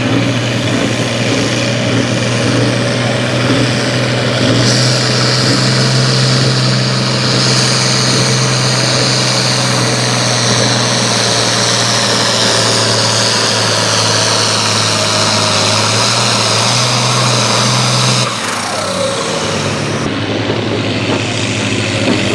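Pulling vehicle's engine run hard and steady under the load of the weight sled, with a higher whine joining a few seconds in. Near the end the engine drops off with a falling pitch and the sound eases.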